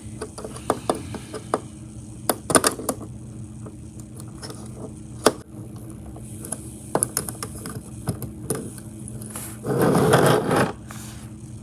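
Small screwdriver driving a screw through a plastic HO scale hopper car's underframe into its body, with scattered irregular clicks and light scrapes as the screw and parts are handled. A louder rasping scrape lasting about a second comes near the end.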